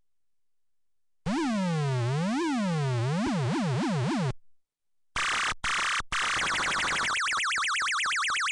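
Electronic synthesized tones. About a second in, a buzzy pitch starts swooping up and down, the swoops getting quicker, and it cuts off about three seconds later. After a short break, a noisier electronic sound comes in with a rapid warbling sweep.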